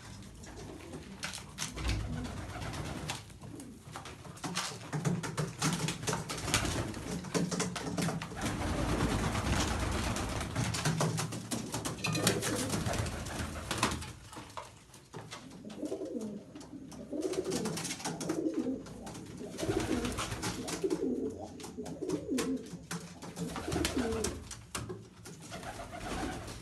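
Pigeons cooing repeatedly, with many short clicks and rustles over them. The cooing is clearest in the second half.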